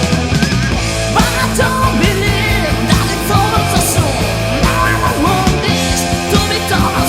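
Heavy metal band playing at full volume: distorted guitars, bass and busy drums, with a lead line bending and gliding in pitch over them.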